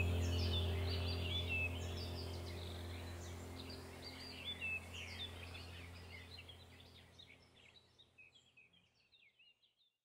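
Small birds chirping and twittering over a low steady hum, the whole sound fading out gradually to silence near the end.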